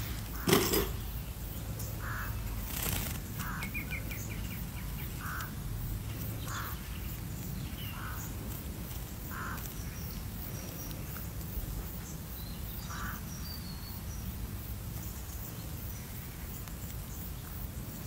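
Birds calling outdoors: a short, harsh call repeated about every one to one and a half seconds, with a brief rapid run of ticking notes and faint high chirps in between, over steady low background noise.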